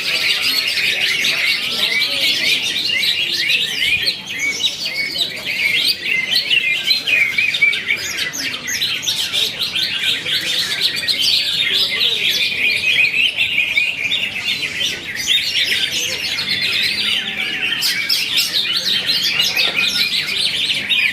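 Cucak hijau (leafbird) singing without pause: a rapid, varied stream of high chirps and trills.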